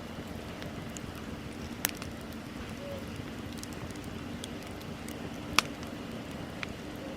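Wood bonfire burning: a steady hiss of flames with scattered small crackles and two sharp pops, one about two seconds in and a louder one near six seconds.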